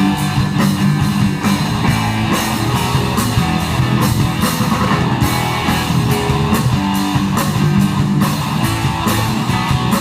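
Rock band playing with electric guitar, bass and drum kit, a steady beat.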